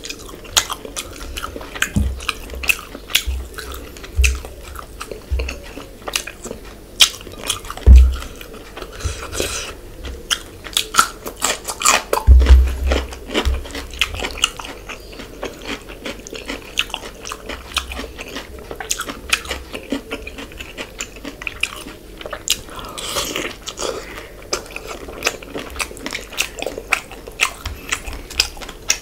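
Close-miked wet chewing and biting of spicy fish curry and fish, with many quick mouth clicks and smacks. A few louder low thumps come about eight seconds in and again about four seconds later.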